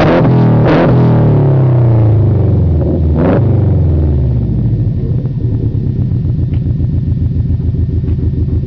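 Ford Mustang Boss 429's 429 V8 revved with sharp throttle blips, the revs falling away and settling about halfway through into a lumpy, pulsing idle.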